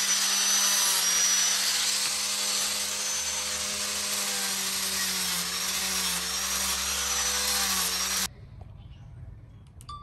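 A power tool working wood: a steady motor hum under a loud, hissing cut, which stops suddenly about eight seconds in, leaving only a faint background.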